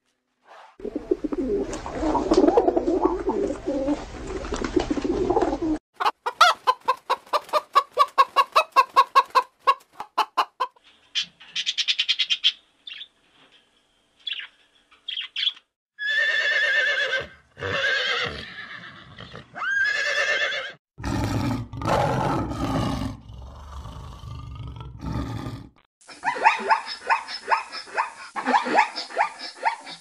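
A string of different animal calls, cut abruptly one after another. About halfway through, horses whinny three times.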